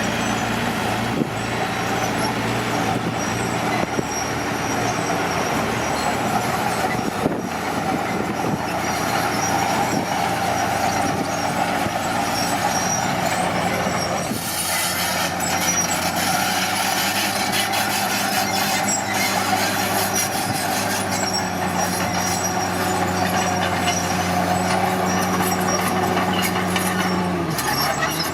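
Komatsu D41P bulldozer's diesel engine running steadily under work. Its engine note shifts to a higher, steadier pitch about halfway through and drops off near the end.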